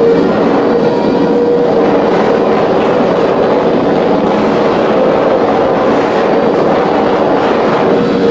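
Kawasaki ZX25R's 250 cc inline-four engine breathing through an aftermarket exhaust, running at high revs with a high, steady engine note that dips slightly about a second and a half in.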